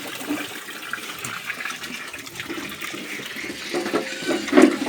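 Water running and splashing as it is poured out for pigs to drink, with a few louder low sounds near the end.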